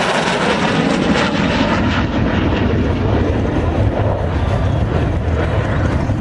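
F-22 Raptor's twin turbofan jet engines, a steady loud roar with a deep rumble as the fighter flies its display.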